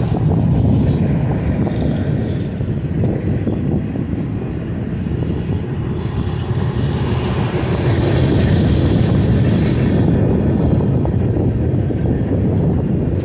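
Freight train rolling past with a steady low rumble; a hiss of wheel and rail noise swells in the middle and fades again.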